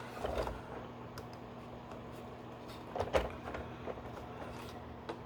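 Hard plastic toy-vehicle parts being handled and fitted together: a few scattered clicks and knocks, the loudest about three seconds in.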